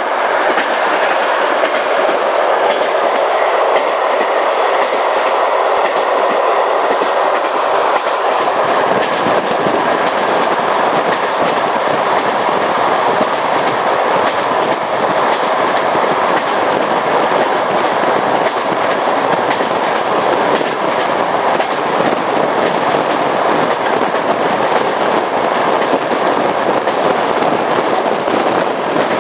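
Train running along jointed track, its wheels clicking over the rail joints in a steady clickety-clack over a constant rush of running noise. A deeper rumble joins in about eight seconds in.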